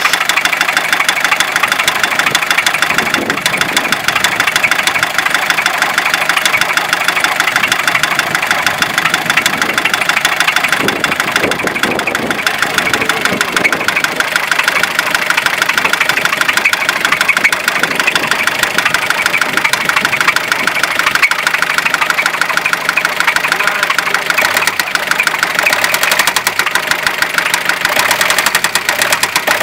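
Fiat Ducato 2.5 TDI four-cylinder turbodiesel idling with a rapid, steady knock from the engine.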